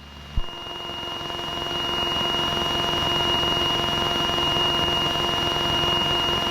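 Steady electronic whine with a stack of thin steady tones under it, in the aircraft's intercom/headset audio feed. It starts faint and grows louder over the first couple of seconds, with a single click just after it begins.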